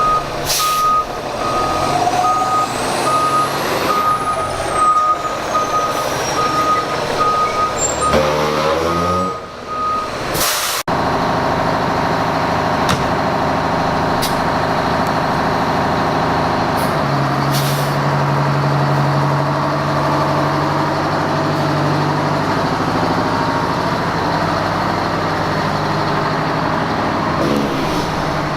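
Fire engines' diesel engines running, with a backup alarm beeping steadily for about the first ten seconds and a few short air-brake hisses. After a sudden change about eleven seconds in, a steady engine drone continues, the engine speeding up for a few seconds in the middle.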